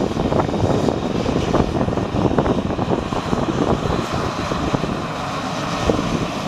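Socata TBM 910's Pratt & Whitney PT6A turboprop running steadily at low taxi power, with a faint high turbine whine over the propeller noise. Gusty wind buffets the microphone with an irregular low rumble.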